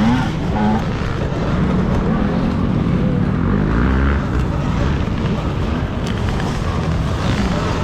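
Dirt bikes racing: motors revving up and down over a heavy rumble of wind and riding noise.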